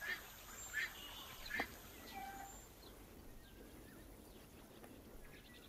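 Faint outdoor ambience with a few short bird chirps, three of them in the first two seconds, then only quiet background.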